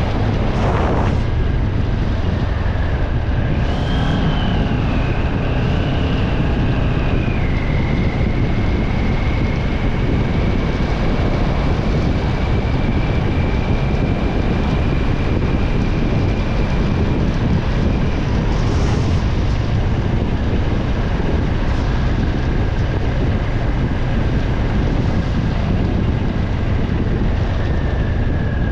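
Vehicle travelling on a rain-soaked road: a steady, loud low rumble of tyre and road noise with wind on the microphone. A faint high whine wavers about four seconds in and then holds steady.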